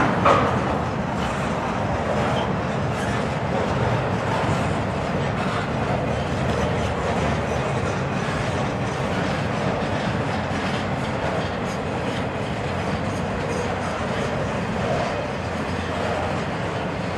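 Norfolk Southern double-stack container train rolling past: a steady rumble and rattle of steel wheels on rail and well cars, with a sharp knock just after the start.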